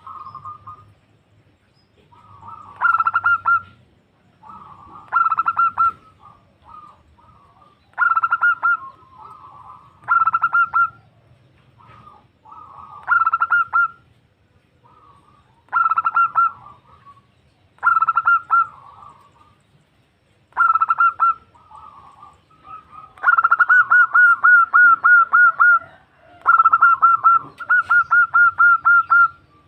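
Female zebra dove (perkutut) calling: short bursts of rapid staccato cooing notes about every two to three seconds, with softer notes between them, and two longer runs of rapid coos near the end.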